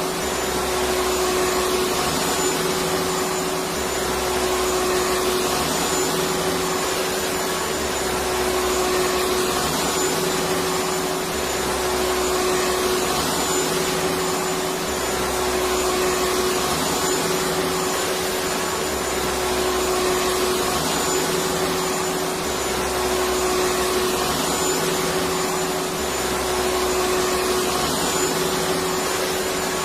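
Electric vacuum cleaner motor running continuously: a steady rushing noise with a constant whine, and a low hum that swells and fades about every two seconds.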